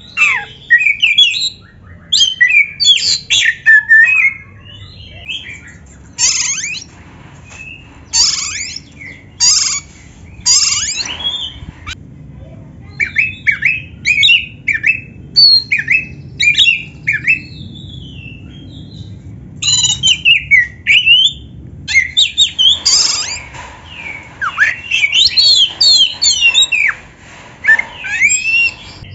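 Oriental magpie-robin singing a varied song: rapid bursts of whistled, sliding notes mixed with harsh, scratchy calls, broken by short pauses.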